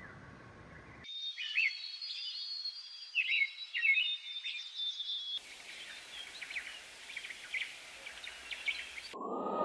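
Wild birds chirping and singing, in several separate recordings spliced together: the background and the birds change abruptly about a second in and again about halfway through. Near the end a different sound starts, a steady tone sliding slowly downward.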